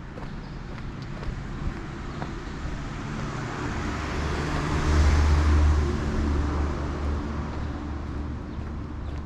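A motor vehicle passing on the road: its engine hum and tyre noise grow louder, peak about five seconds in, then fade away.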